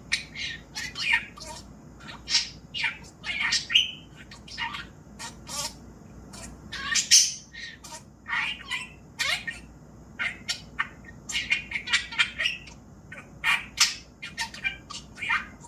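Pet budgerigar chattering: a run of quick, irregular chirps, squawks and warbles with short gaps.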